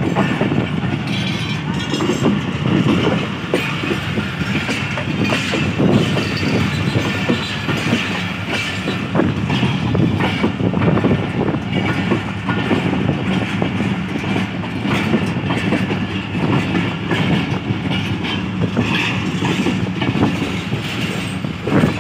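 Passenger train coaches rolling past, their wheels clacking over the rail joints in an irregular stream over a steady rumble.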